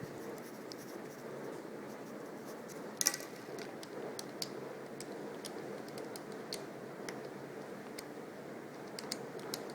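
Faint, irregular light clicks and taps, a dozen or so, the clearest about three seconds in, over a steady low room hiss.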